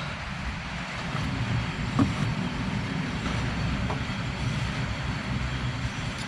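Car running in gear with its rear wheels spinning off the ground, a steady low rumble, with one sharp click about two seconds in. The rear wheel bearings are being checked for a rear-end noise.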